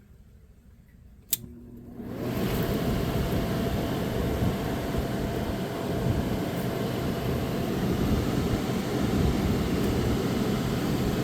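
1985 White Westinghouse 5900 BTU window air conditioner switched to fan only: a single click a little over a second in, then about two seconds in the blower fan motor starts and runs steadily with a whoosh of moving air and a faint hum. The compressor is not running.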